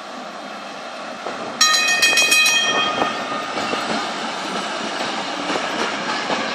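A historic electric tram rolls past, growing louder. About a second and a half in it gives a sudden loud ringing warning signal that fades within about a second, and its wheels click over the rail joints as it goes by.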